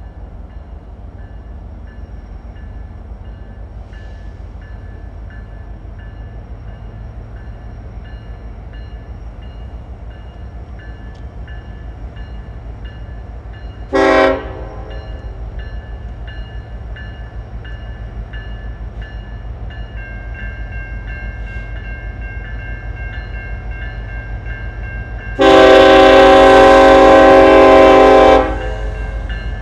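Freight train locomotive rumbling steadily, sounding its air horn: one short blast, then a longer blast of about three seconds near the end, much louder than the rumble.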